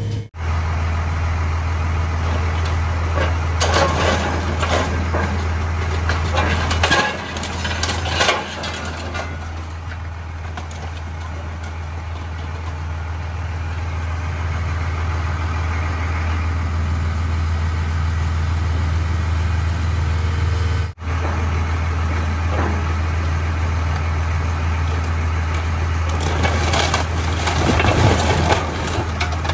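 Heavy scrapyard machinery running with a steady low drone, with bouts of scrap metal crunching and cracking a few seconds in, again around seven to eight seconds in, and near the end.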